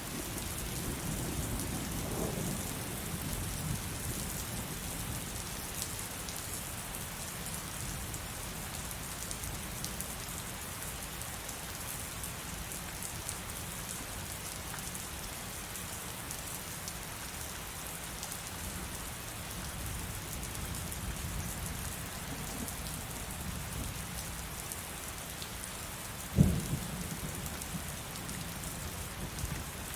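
Heavy rain falling steadily, with individual drops ticking. Low thunder rumbles in the first few seconds, and a single sudden thunderclap cracks a few seconds before the end, followed by a short rumble.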